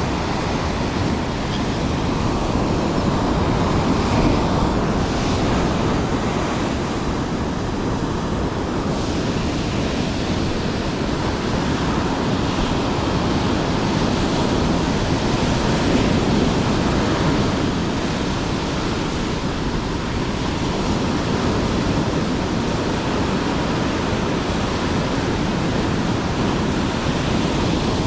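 Steady rush of surf breaking on the shore, mixed with wind on the microphone, swelling slightly now and then.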